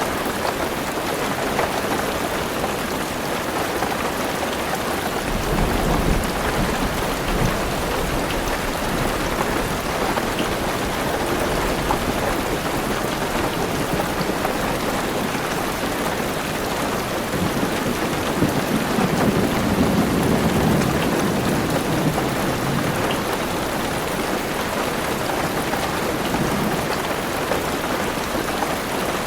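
Heavy rain drumming steadily on a car roof and windows, with low rolling thunder rumbling in about five seconds in and again around the middle.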